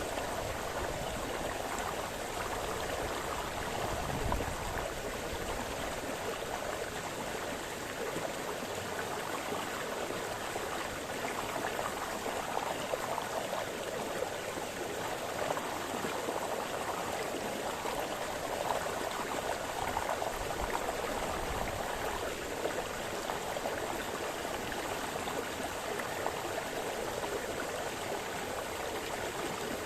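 Small forest brook splashing and burbling over stones, a steady rush of running water with small changing gurgles.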